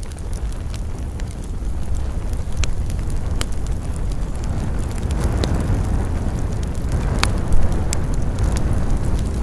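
Wood campfire burning: a steady low rush of flames with scattered sharp crackles and pops, one louder crack about seven seconds in.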